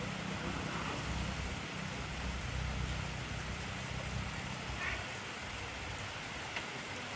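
Heavy rain falling steadily, an even hiss of rain. A low rumble underneath dies away about five seconds in, and a few sharp drop ticks stand out near the end.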